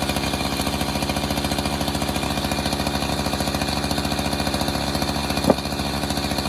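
Small gasoline engine running steadily at a constant speed with a fast, even putter, with one sharp knock about five and a half seconds in.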